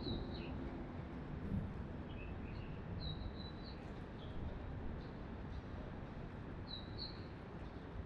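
Small birds chirping in short high calls: a burst at the start, a few lower notes about two seconds in, a run of chirps around three seconds in and another near seven seconds. Under them runs a steady low background rumble.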